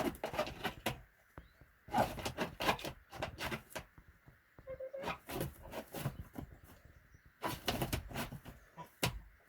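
A hen shuffling and scratching in a plastic litter-tray nest box with straw, making irregular scrapes, clicks and rustles as she makes a nest spot, with one short soft low note from her about five seconds in.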